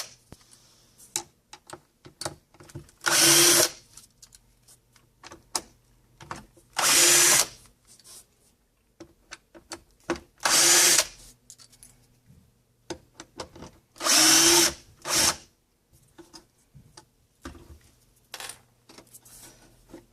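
Power drill running in five short bursts, each about half a second to a second, backing screws out of the scanner's shell. Small clicks and knocks come between the bursts.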